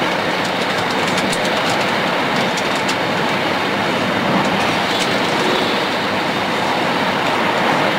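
E2 series Shinkansen train running at speed, a steady rush and rumble of wheels on rail and air, heard from on board, with faint light ticks scattered through it.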